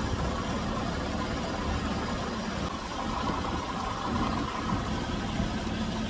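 1998 Chevy Venture's 3.4-litre V6 idling steadily while it warms up, its coolant system being bled after a thermostat replacement.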